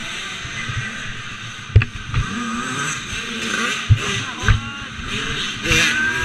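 Dirt bike engines revving, rising and falling in pitch, with a few sharp thumps; the loudest comes about two seconds in.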